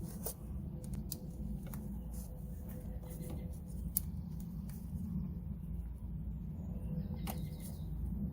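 Scattered light clicks and taps from hands working on parts, with a sharper click about four seconds in, over a steady low background hum.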